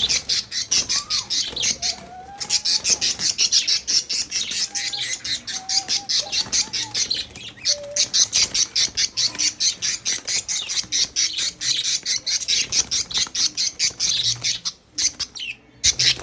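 Birds squawking in a fight: a rapid, harsh run of calls repeating several times a second, breaking off briefly about two seconds in and again near the end.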